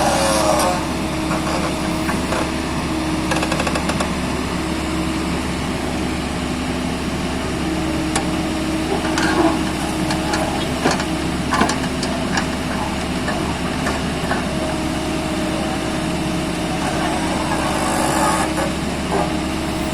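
Excavator's diesel engine running steadily, with a scattering of short knocks and clicks about halfway through.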